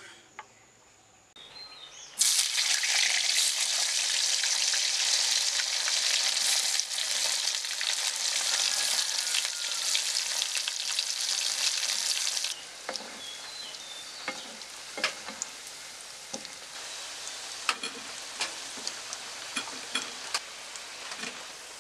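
Cubes of potato deep-frying in hot oil: a loud, steady sizzle that starts about two seconds in and drops off sharply around twelve seconds. Quieter sizzling follows, broken by scattered sharp clicks.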